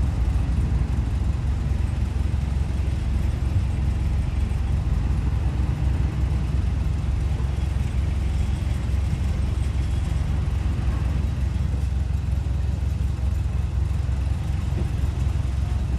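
Diesel engine of heavy earthmoving equipment (a bulldozer or dump truck) running steadily, a low, even engine sound with no clear revving.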